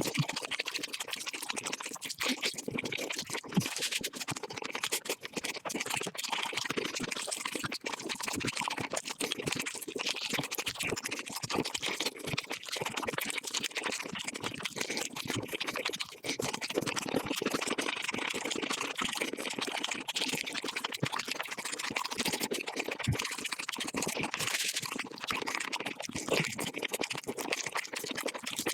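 Mukbang eating sounds of chicken, chewing and crunching, sped up five times so the bites and chews run together into a dense, continuous crackle of fast clicks.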